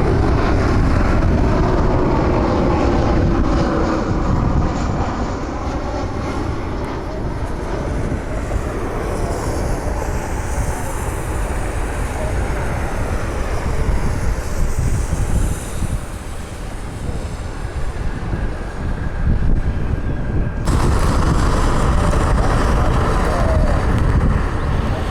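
Boeing 737 jet airliner arriving, its engines' rumble and whine heard over steady low noise, with a falling tone in the first few seconds as it passes.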